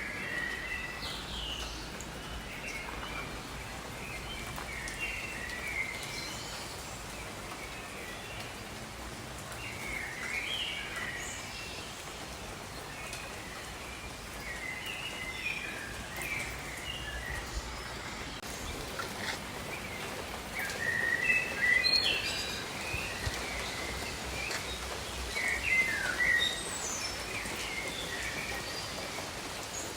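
Steady rain falling over jungle foliage, with many birds chirping and calling throughout in short phrases; the calls are loudest about two-thirds of the way through and again near the end.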